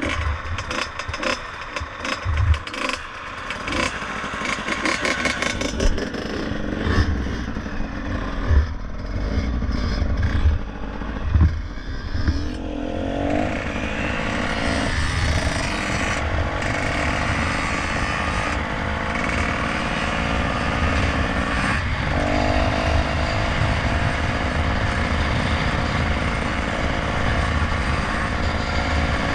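Motorcycle engine pulling away and accelerating, its note rising in pitch and dipping briefly about 22 seconds in, with low rumble, knocks and clatter in the first dozen seconds before the engine settles into a steady run.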